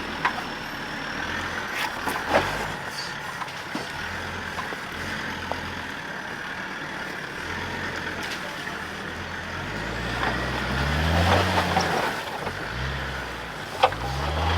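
Four-wheel-drive truck's engine running at low revs while crawling over a rough off-road track, revving up and dropping back twice near the end, with occasional sharp knocks and clunks from the vehicle jolting over rocks.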